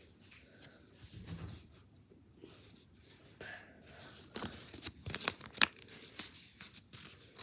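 A paper airplane being bent and creased by hand: the sheet of paper crinkles and rustles, with a few sharp crackles about halfway through.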